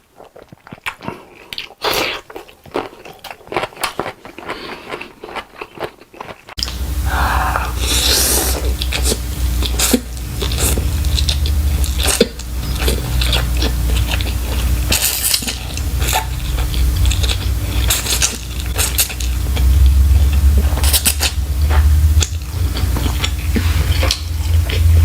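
Close-miked mukbang eating: a person biting and chewing food, with wet crunching and clicks and the clink of utensils on dishes. About six seconds in the sound jumps louder over a steady low hum and rumble.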